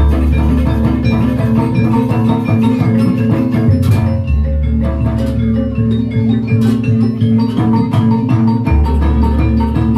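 Live jaranan accompaniment music: fast, dense metallophone notes with drums, over deep low notes that come in again about four seconds and about nine seconds in.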